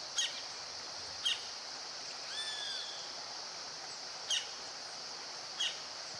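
Small birds chirping: four short separate chirps and one arching call near the middle, over a steady high hiss of outdoor ambience.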